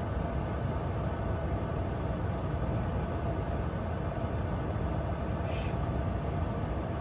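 Ford Maverick pickup running while stationary, a steady low drone heard from inside the cab. A single short click sounds about five and a half seconds in.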